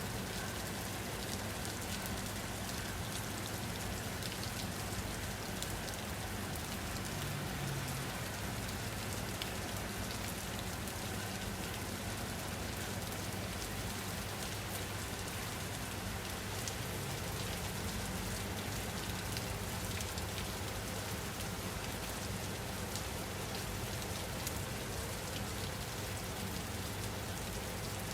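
Steady rain falling on a surface, an even hiss scattered with many small drop ticks, over a constant low hum.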